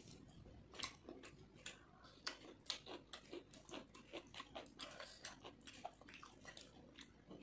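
Close-up chewing and wet mouth smacks of a person eating fried rice: a quiet, steady run of short clicks, a few each second.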